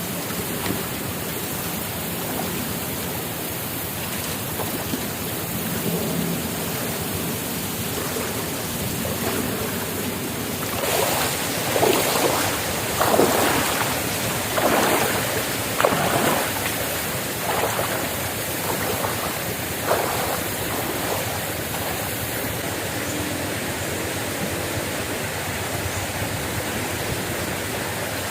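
Steady rush of water, as from a river or rain. In the middle comes a run of about eight louder, scratchy strokes, roughly one a second.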